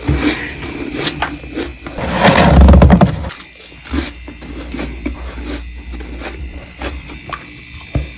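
Freezer frost being scraped up and crunched, with sharp crackling. The loudest stretch comes about two seconds in and lasts just over a second, followed by a run of separate crisp crunching clicks.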